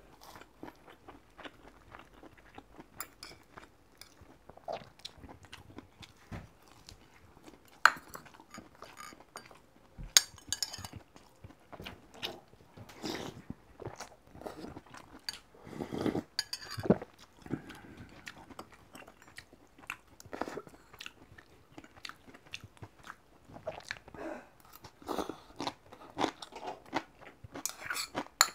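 Mouth sounds of chewing and crunching rice and Korean side dishes, with scattered clicks of metal chopsticks and a spoon against the bowls; a few sharp clicks stand out.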